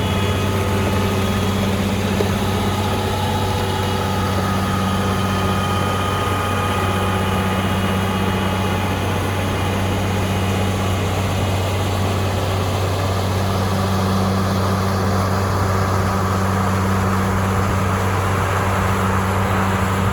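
Heavy snow-removal machinery running steadily: a deep diesel engine hum, with fainter higher whines and a steady rushing noise over it.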